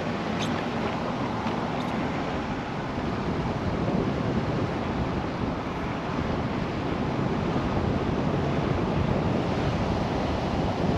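Steady rushing road and wind noise from a Chevrolet Silverado 2500HD pickup driving on a rain-wet road, with a faint click about half a second in.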